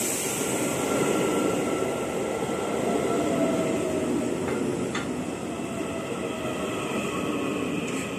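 Electric multiple-unit commuter train running in along the platform, its wheels and running gear rumbling steadily as the cars pass, with a faint whine that falls in pitch in the middle as the train slows.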